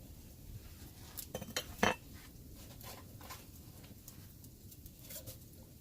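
A few light metallic clinks and knocks of camp cookware being handled, bunched together about a second in, the last one the loudest. A faint steady patter of rain underneath.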